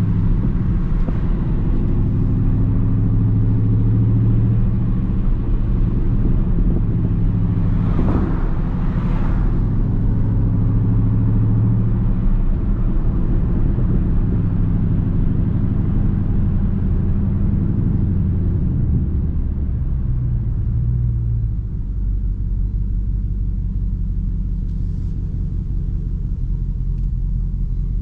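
Dodge Charger Daytona 392's 6.4-litre HEMI V8 cruising with a steady low rumble. A brief whoosh comes about eight seconds in, and the engine note drops slightly around twenty seconds in.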